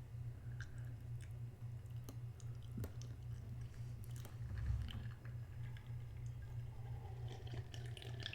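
A person chewing food with their mouth close to the microphone: soft, wet chewing with small crackles and clicks, and one louder low thump about halfway through. A steady low hum runs underneath.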